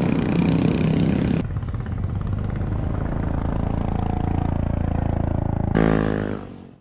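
Motorcycle engine running in a few cut-together clips: a steady engine note after a cut about a second and a half in, then a louder engine note near the end that fades out quickly.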